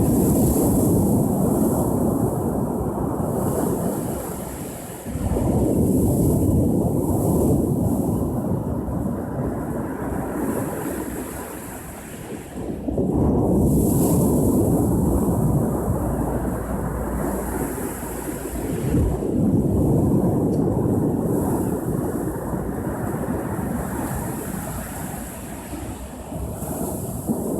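Ocean surf: waves breaking and washing up the shore in repeated surges every five to eight seconds, each swelling and then fading.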